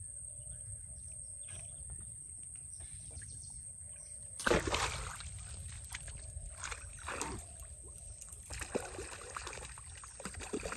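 Water splashing and sloshing, starting suddenly about four and a half seconds in and going on in irregular splashes, over a steady low rumble of wind on the microphone.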